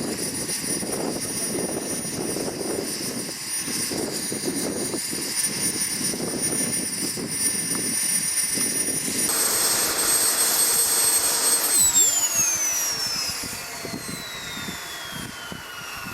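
Model gas turbine in a quarter-scale Lama helicopter running with a steady high-pitched whine. About nine seconds in the sound changes abruptly. From about twelve seconds the whine falls steadily in pitch and loudness as the turbine spools down.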